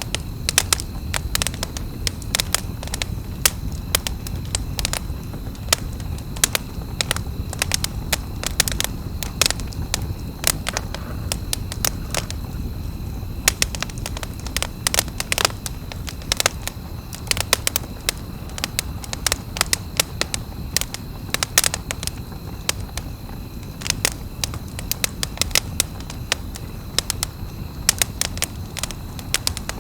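Wood campfire crackling: irregular sharp pops and snaps, several a second, over a steady low rumble of the burning fire. A faint steady high tone runs underneath.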